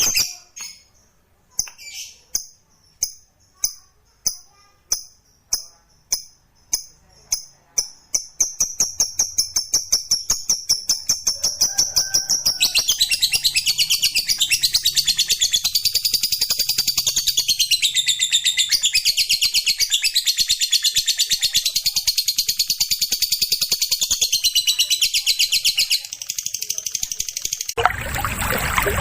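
Lovebird giving its long 'ngekek' chattering call: high chirps come faster and faster until they run together into a continuous rapid, wavering trill that holds for over ten seconds. Near the end a rushing, water-like noise comes in.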